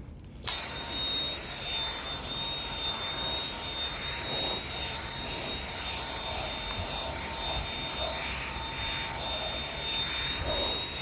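Dyson V7 cordless stick vacuum switched on about half a second in, its motor running steadily with a high whine, drawing through the upholstery tool on a fabric sofa.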